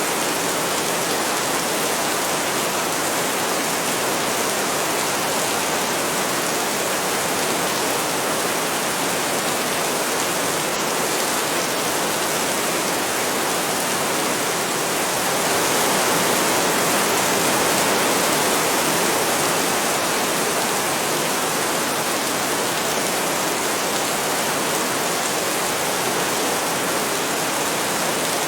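Heavy rain falling steadily as a dense, even hiss, swelling a little louder about halfway through.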